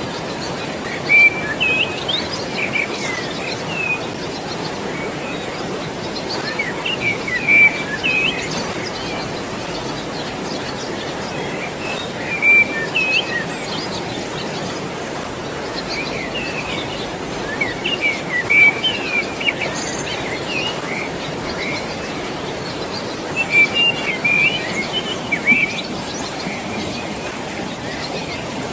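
Birds chirping in short bursts of quick whistled notes every few seconds, over a steady rush of flowing water.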